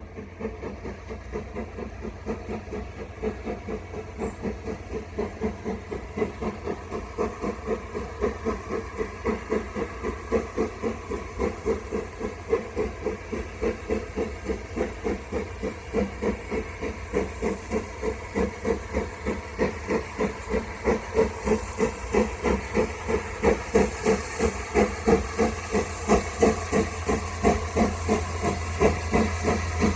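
GWR 5552, a small Prairie 2-6-2 tank steam locomotive, working hard up a steep incline on wet rails. It gives a slow, even rhythm of heavy exhaust beats over a steady hiss, and grows gradually louder as it approaches.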